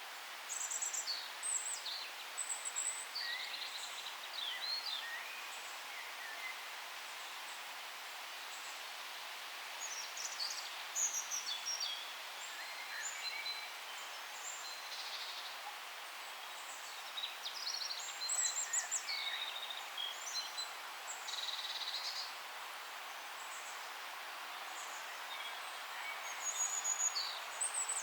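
Songbirds singing and chirping in bouts of quick high trills and twitters, over a steady hiss of forest background.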